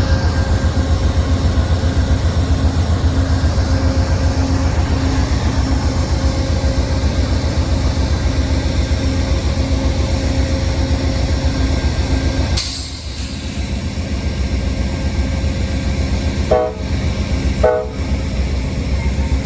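Train running close by with a heavy, steady rumble, changing abruptly about two-thirds through, then two short horn toots near the end.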